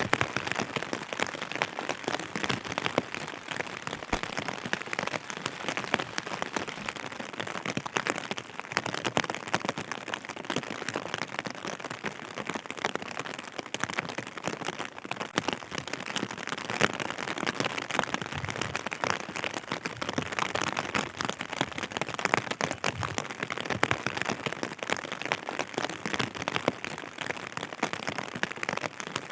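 Steady rain with a dense patter of drops hitting a surface.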